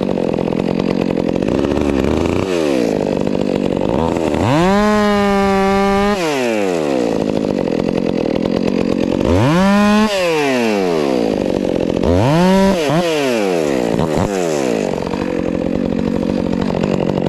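Stihl MS 400 C two-stroke chainsaw cutting firewood. It revs up to full throttle and falls back several times, pulling down under load through the cuts in between, as limbs are trimmed off and logs bucked to length.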